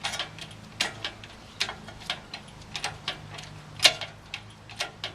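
Sharp clicks and clinks, about three a second at uneven spacing, over a faint steady low hum, during work to lift the engine out.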